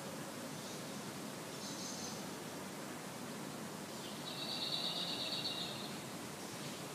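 Outdoor garden ambience with a small bird calling: a short high call about two seconds in, then a longer, rapidly trilled phrase about four seconds in, over steady background noise.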